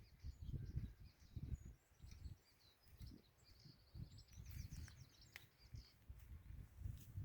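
Faint outdoor ambience: small birds chirping in quick series over the first five seconds or so, over soft, irregular low rumbles.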